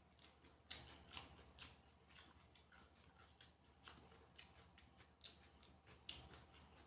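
Faint eating sounds close to the microphone: irregular crisp crunches and mouth clicks of chewing, about two a second, over a low steady hum.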